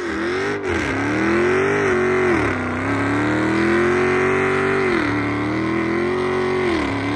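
Dodge Charger's V8 held at high revs through a burnout, the rear wheels spinning. The engine note stays high, dipping and climbing back several times as the throttle is worked.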